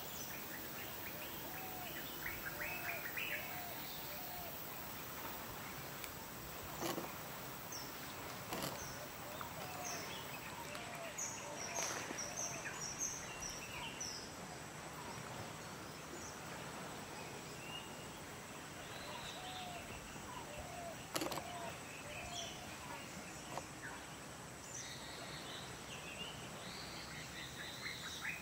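Birds chirping and calling in many short, scattered notes over a steady outdoor background hiss, with a few sharp snaps, the loudest about three quarters of the way through.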